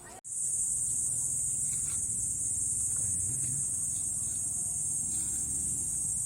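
Steady, high-pitched drone of insects, cutting in abruptly just after a brief gap at the start, over a faint low rumble.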